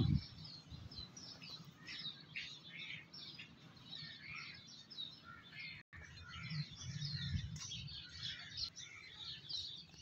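Many small birds chirping and twittering, lots of short overlapping calls, with a brief break in the sound about six seconds in.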